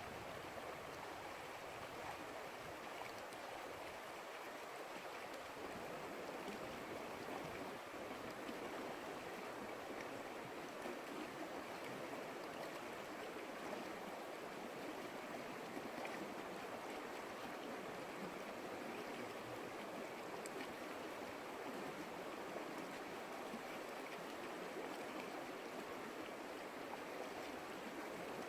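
Creek water flowing steadily over stones, an even, unbroken rush with no music or voices.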